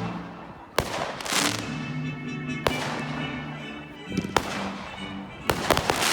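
Fireworks going off: separate sharp bangs every second or two, several trailed by a crackling hiss, with a quick cluster of bangs near the end. Music plays steadily underneath.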